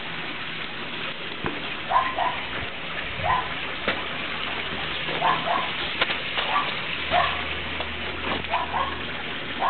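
Norrbottenspets puppies giving short high yips, often in quick pairs, over the steady hiss of rain.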